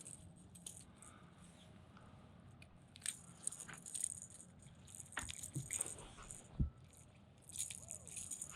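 Light rattling and clicking of fishing tackle being handled, growing busier from about three seconds in, with one dull knock about two-thirds through.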